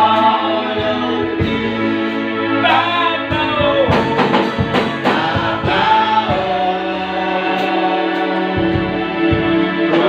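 Slow gospel worship song: voices singing a drawn-out melody over held instrumental chords.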